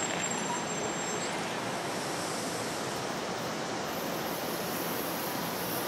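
NJ Transit multilevel commuter coaches rolling past on the rails: a steady, even rush of wheel and rail noise as the last cars go by and move away.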